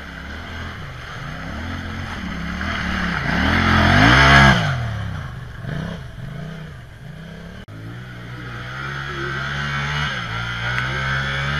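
Yamaha engine of a competition tractor revving up and down several times, loudest as it climbs to a peak about four and a half seconds in, then dropping back. After a short break it runs more steadily at higher revs.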